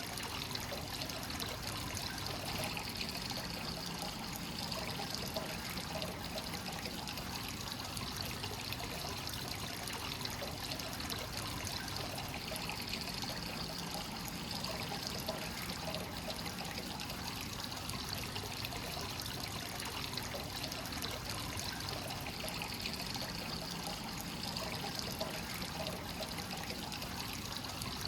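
Free-flowing hot-spring water running steadily into a stone bath, an unbroken trickling pour.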